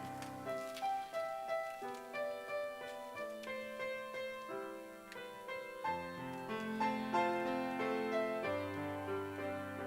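Piano playing an instrumental interlude between choir passages: a flowing melody of separate notes over held bass notes.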